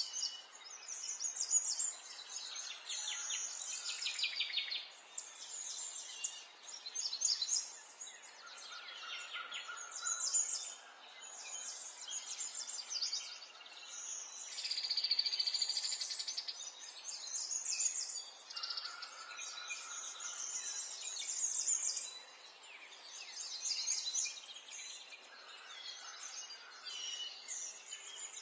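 Several songbirds singing and chirping at once, a dense run of quick trills and chirps, with a louder steady buzzy trill about halfway through.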